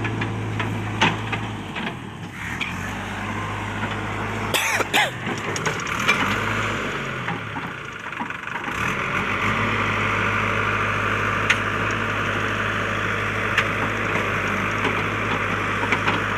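JCB backhoe loader's diesel engine running, its note dipping and shifting under load for several seconds in the middle before settling back to a steady run. Scattered sharp cracks and clicks sound over it, the loudest about five seconds in.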